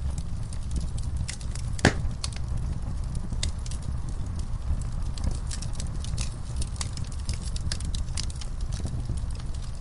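Wood fire burning in a fireplace: a steady low rumble of the flames with irregular crackles and pops from the burning logs, one louder pop about two seconds in.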